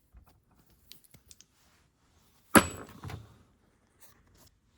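Engine parts being handled: a few light metal clicks, then one sharp metallic clank with a brief ring about two and a half seconds in, followed by a couple of softer knocks.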